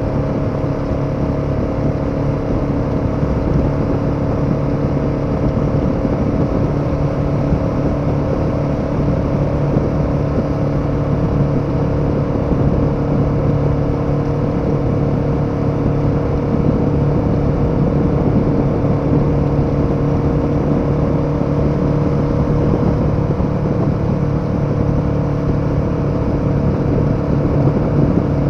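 KTM 1290 Super Adventure's V-twin engine running at steady revs while the motorcycle cruises, with a steady rush of road and wind noise under it.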